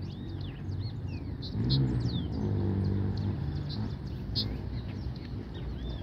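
Adult birds giving repeated sharp alarm calls and short whistles, defending their fledgling from a dog close by. Under them a low vehicle rumble swells about two seconds in and fades.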